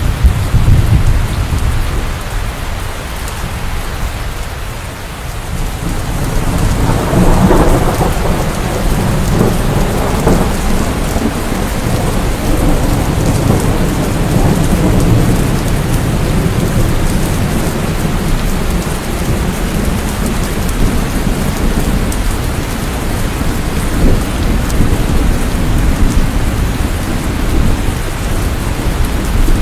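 Thunderstorm: steady heavy rain with rolling thunder. There is a loud rumble right at the start, then a longer peal that builds about seven seconds in and rolls away over the next several seconds.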